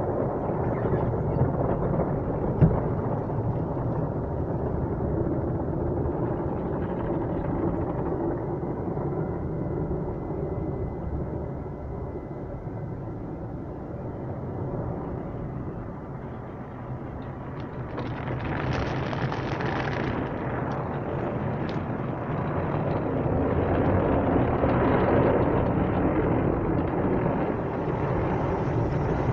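Automatic tunnel car wash heard from inside the car: a steady, muffled rush of water spray and wash machinery on the car's body. There is a single knock about two and a half seconds in, a brighter, hissier spray about two-thirds of the way through, and the noise swells near the end.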